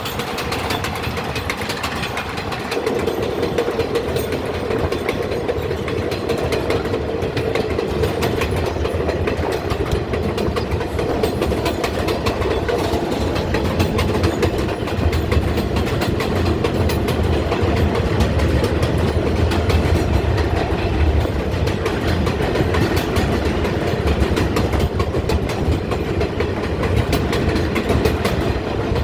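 R142A subway train running along the track, heard from on board: a continuous rumble with rapid clicks of the wheels over the rail. A steady hum sets in a few seconds in.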